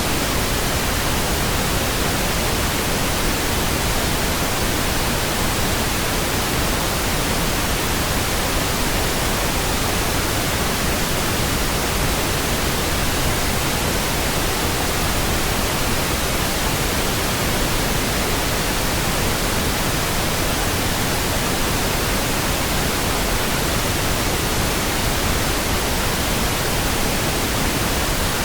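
Steady pink noise: an even, unchanging hiss, with no other sounds.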